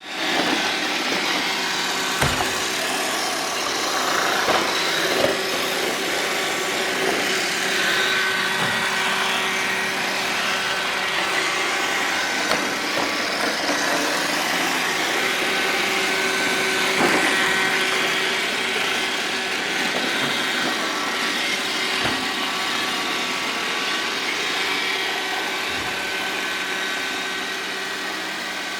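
Roomba 780 robot vacuum running with a steady whir, broken by a few brief knocks.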